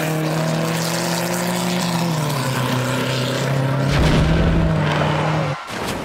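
A car engine held at steady revs, its pitch dipping slightly about two seconds in, with a burst of low rumble about four seconds in; it cuts off suddenly near the end.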